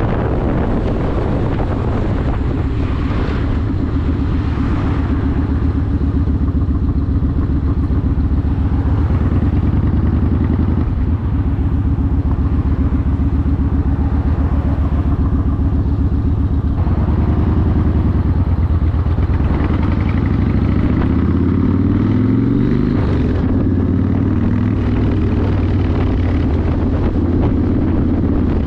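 Yamaha Warrior 1700's V-twin engine running through a custom exhaust while riding. It holds a steady note, with its pitch shifting a few times and climbing under throttle about three-quarters of the way through.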